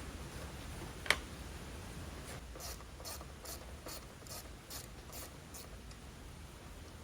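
A sharp metallic click about a second in, then a hand ratchet wrench worked back and forth, its pawl rasping in about eight short strokes, two to three a second, as a small bracket bolt is undone.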